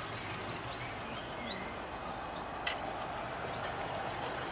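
A small bird sings a rapid trill of evenly spaced high notes, starting about a second and a half in and lasting about a second, over steady outdoor background noise. A single sharp click comes just after the trill.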